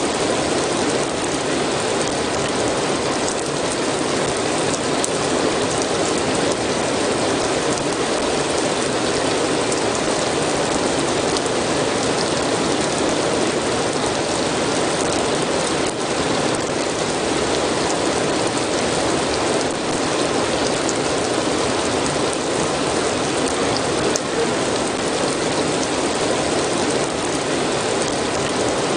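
Steady rain falling, an even dense patter of drops hitting a surface.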